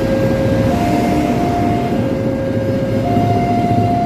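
Passenger train coaches running past at close range, their wheels on the rails making a dense, steady low noise. Over it a level-crossing warning alarm sounds a two-tone signal, a higher and a lower note alternating about every second.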